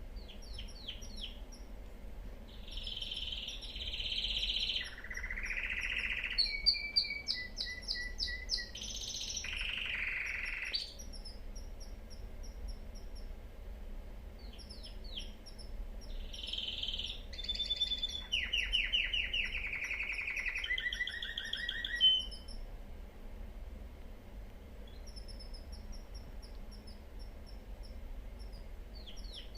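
Male domestic canary singing: rapid trills and rolls of quickly repeated notes in two long bursts, with a few seconds' pause between them and faint high chirps in the quieter stretches.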